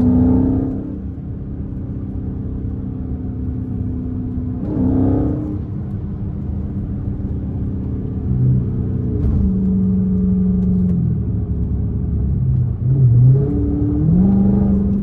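Straight-piped Dodge Charger Scat Pack's 392 V8 exhaust while driving, a steady drone with two brief louder swells, near the start and about five seconds in. In the second half the engine note dips and rises in pitch as the throttle changes.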